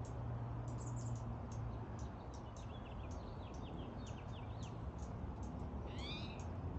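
Birds calling over a steady low hum: a quick run of short high chirps through the middle, then one sweeping call near the end.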